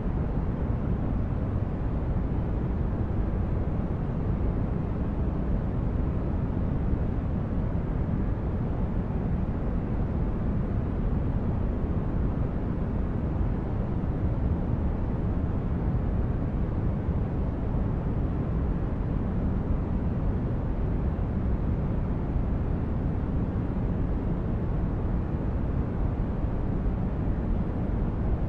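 Steady, unchanging noise weighted toward the low end, a deep even hush with no tones or events in it: a continuous sleep-aid white-noise track.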